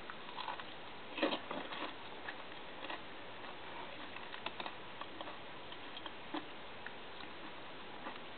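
Faint, scattered clicks and light taps, a few a second at irregular intervals, with a slightly louder cluster about a second in.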